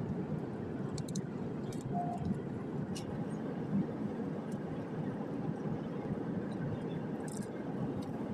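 Steady low rumble of an Airbus A350 passenger cabin, with a few faint clicks and a brief faint tone about two seconds in.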